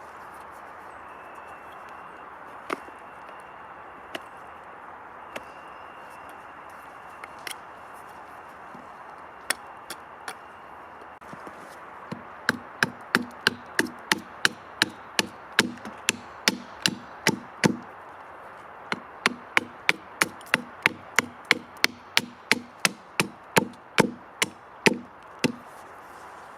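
Axe chopping into wood: a few scattered blows, then a steady run of strikes about two to three a second, with a short break partway through.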